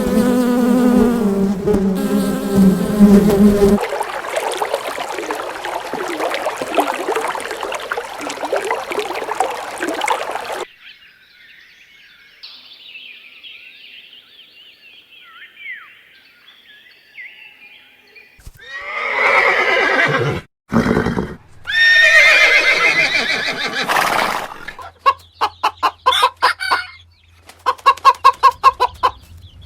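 A run of animal sounds: a buzzing insect drone for the first ten seconds or so, then faint high chirps, then two loud wavering horse whinnies about 19 and 22 seconds in, followed by a run of quick pulsed calls near the end.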